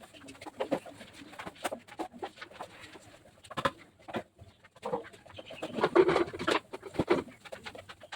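Birds calling, with repeated pigeon-like cooing; the calls are loudest about six seconds in.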